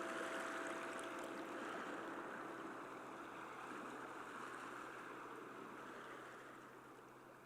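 Sea waves washing on a shore, a steady wash of surf that slowly fades out, after the last held notes of the music die away about half a second in.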